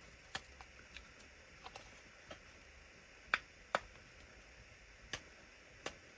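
Irregular small sharp clicks and taps of a tool working at a small plastic mini RC car to pry a part off, with two louder clicks about half a second apart a little over three seconds in.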